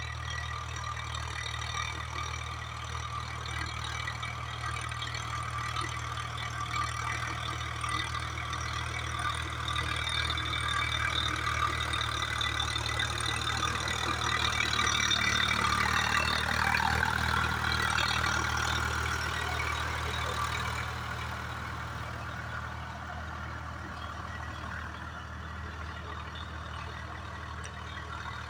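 Swaraj 744FE tractor's diesel engine running steadily. It grows louder toward the middle, then eases off again.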